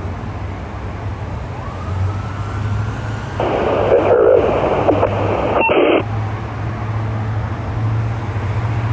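A fire apparatus siren wails faintly upward over a steady low engine rumble. A short burst of scanner radio transmission comes in about three and a half seconds in and cuts off with a click.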